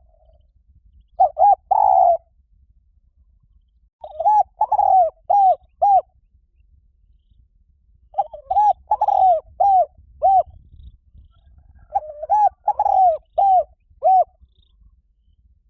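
Spotted dove cooing: four phrases of several rounded coo notes, one phrase about every four seconds, the lure call used to draw doves in.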